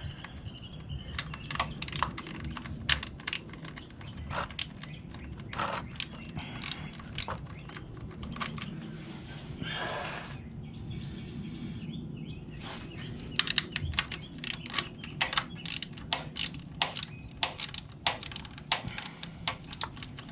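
Ratchet wrench clicking in short runs as a motorcycle's oil drain plug is tightened back in. The clicks are scattered at first and come in quicker runs in the second half.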